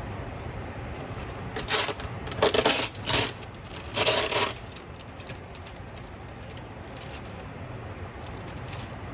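A plastic spinach container being handled and opened: four short crinkling, clattering bursts in quick succession over about three seconds, over a steady low hum from the kitchen.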